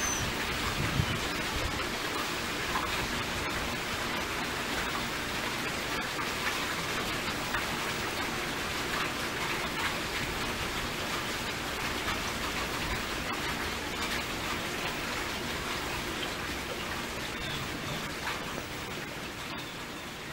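Steady rain falling on leaves, an even hiss with scattered drops ticking, easing slightly near the end.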